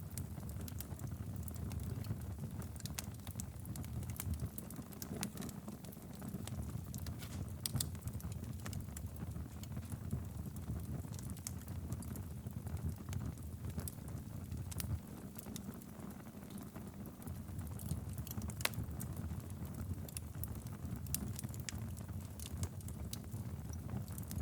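Wood fire burning steadily in a fireplace, a low rumble of flame with frequent irregular crackles and pops.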